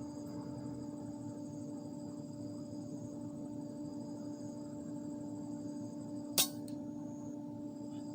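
Steady droning hum, broken once about six seconds in by a single sharp crack and a faint tick just after it.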